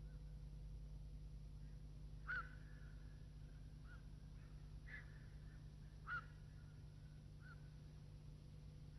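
A few short, faint bird calls over near silence, about four in all. Each one is a quick falling note that ends in a short held tone.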